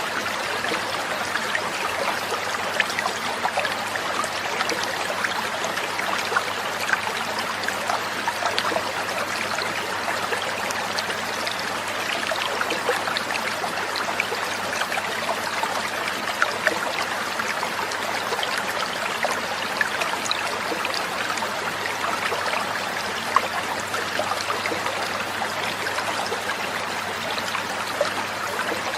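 Trickling, splashing water running steadily, with no birdsong.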